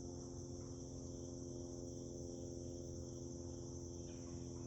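Crickets chirping in a steady, continuous high-pitched chorus, with a faint steady low hum beneath.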